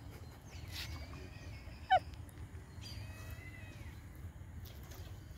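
Birds calling over the water, with one loud, short call that drops steeply in pitch about two seconds in and fainter whistled notes after it, over a low steady background rumble.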